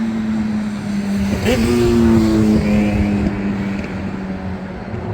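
Engine hum of a passing vehicle, a steady droning tone that sinks slowly in pitch. A second engine note joins about one and a half seconds in and fades by the middle.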